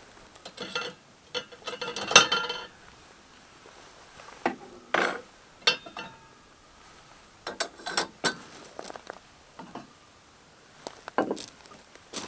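Small hard objects being handled: irregular clicks, clinks and rattles, the loudest cluster about two seconds in.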